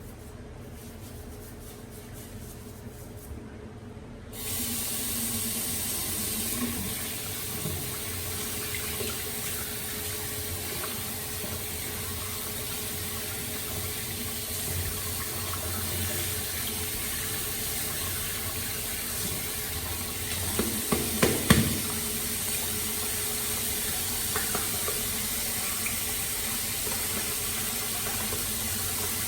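Water tap turned on about four seconds in and running steadily into a sink, with a few sharp knocks or clinks partway through.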